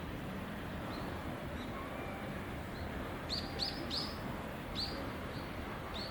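A small bird chirping: short, high chirps that fall in pitch, faint at first, then about five louder ones in quick succession in the second half, over a steady background hiss.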